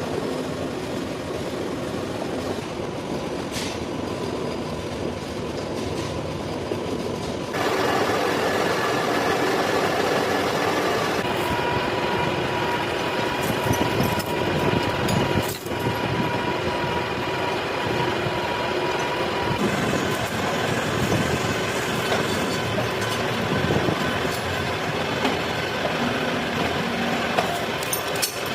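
Workshop machine tool running steadily during metalworking, a continuous mechanical noise with a faint steady whine; the sound shifts abruptly a few times.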